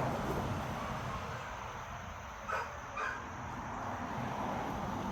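A dog barks twice, two short barks about half a second apart, over steady low background noise.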